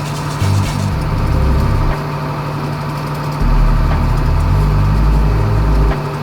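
Widebeam boat's inboard engine running steadily, with two spells of heavier deep rumble: one starting just after the beginning, the other about halfway through.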